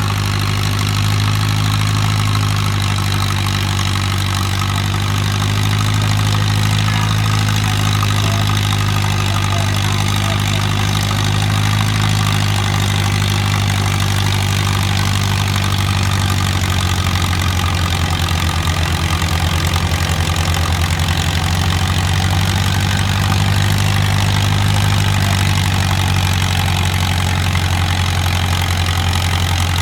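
Antique tractor engine running steadily with a low, even drone, its pitch easing down slightly about halfway through.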